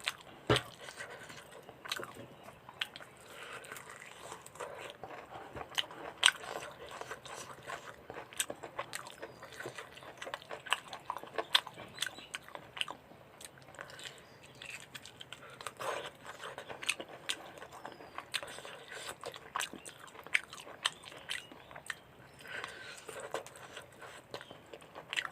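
Close-miked eating of mutton curry with rice: a person chewing and biting with many irregular, sharp, wet mouth clicks.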